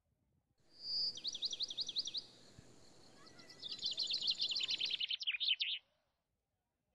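A bird singing: a short whistle, then a run of quick sharp notes sweeping down in pitch. After a pause comes a faster, longer run that gradually drops lower. The song is cut off abruptly near the end.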